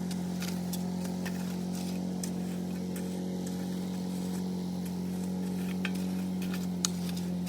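Small gasoline engine running at a steady speed, with scattered sharp ticks over it.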